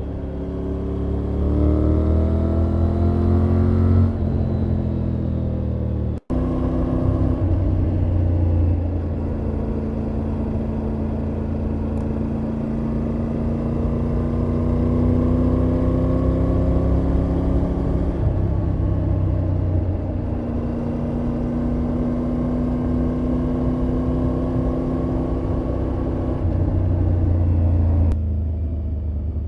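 Triumph Tiger 900's inline three-cylinder engine and exhaust on the move: pulling up through the revs for the first few seconds, then running at a steadier cruise with small throttle rises, and easing off near the end. The sound cuts out for a split second about six seconds in.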